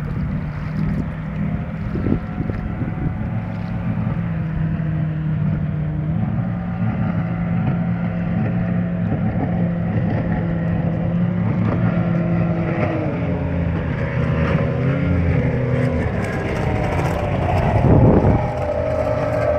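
A motorboat's 2.5-litre EFI engine running at speed on a pass, freshly rebuilt. Its pitch wavers up and down through the second half, and it grows louder to a peak near the end as it goes by.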